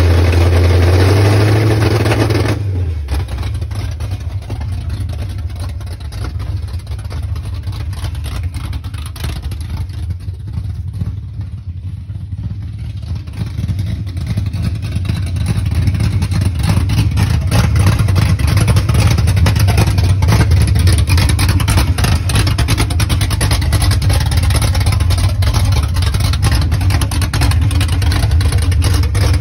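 Cammed, straight-piped Ford 460 big-block V8 revved by hand at the carburetor, the pitch rising about a second in. After about two and a half seconds it drops back to idle. The idle is quieter for a while, then louder again from about halfway on.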